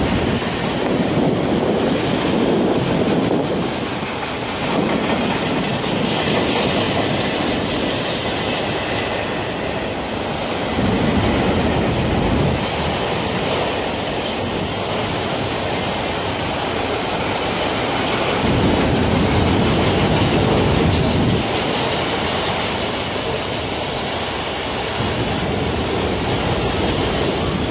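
Enclosed autorack freight cars rolling past, their steel wheels rumbling and clattering on the rails. The sound swells louder every several seconds as wheel sets go by.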